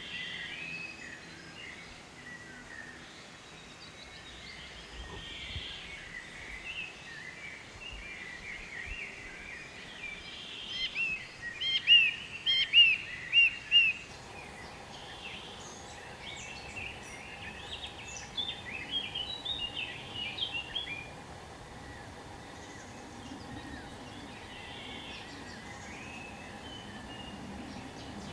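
Birds calling and chirping over steady outdoor background noise. The loudest part is a quick run of repeated chirps about halfway through, followed by a second, fainter flurry of calls.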